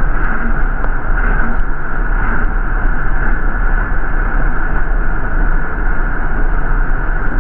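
MTA city bus in motion, a steady drone of engine and road noise heard from inside the bus.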